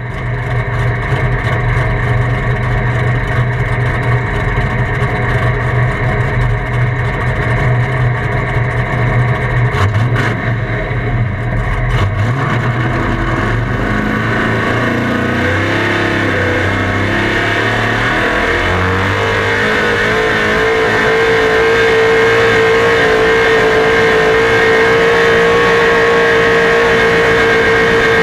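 Truck-pulling vehicle's engine running hard under load, with a dense, steady engine note. Partway through the pitch shifts in steps, and over the last third a steady high whine rises above the engine.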